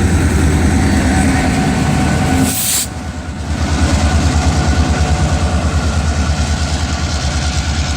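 Freight train cars rolling past with a steady low rumble. A short burst of noise comes about two and a half seconds in, followed by a brief drop in level before the rumble picks up again.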